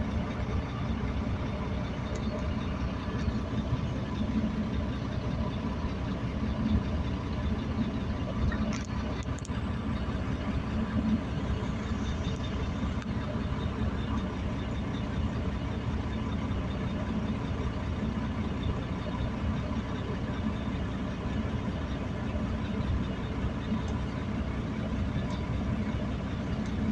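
An engine idling steadily, a low even drone that does not change.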